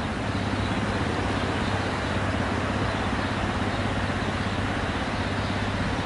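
Steady drone of a motor vehicle's engine with road noise, running evenly without change.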